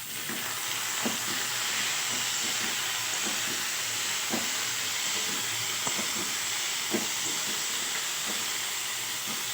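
Potato pieces sizzling steadily as they fry in mustard oil in a kadai, with a few faint clicks of the stirring spoon.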